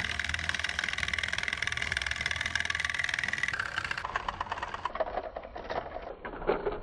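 Battery-powered Thomas & Friends TrackMaster toy engines running along plastic track: a steady, fast rattle of small motor and wheels that becomes more uneven in the last few seconds.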